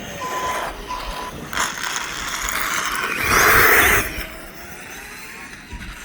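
Electric motor of a Losi ProMoto RC dirt bike whining as it runs, with short high tones near the start. About three seconds in there is a loud rush of noise lasting under a second, from the tyre spinning and scraping on the ground.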